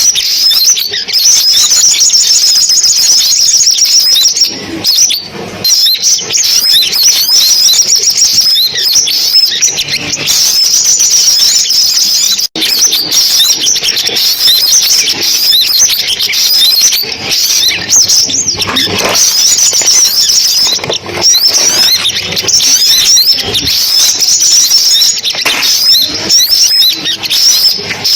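Sunbird calls played as a trapping lure: rapid, high-pitched chirps and twitters in a dense, unbroken stream, with a momentary dropout about twelve seconds in.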